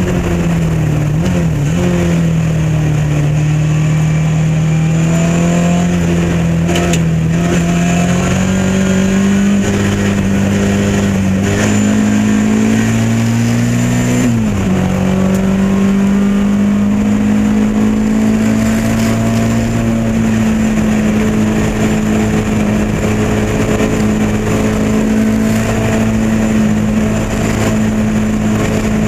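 Lotus Elan race car's engine running hard at high revs. The pitch dips and recovers just after the start, then climbs slowly, drops sharply at a gear change about halfway, and holds a steady, slowly rising note through the rest.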